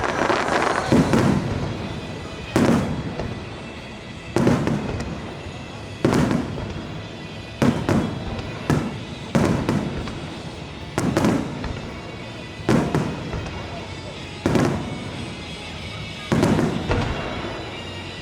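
Aerial fireworks shells bursting, about a dozen sharp booms spaced roughly every one and a half to two seconds, each trailing off in a rumbling echo.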